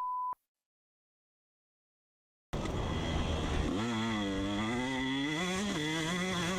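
A short beep, then dead silence for about two seconds, then a dirt bike engine running, its pitch rising and falling with the throttle.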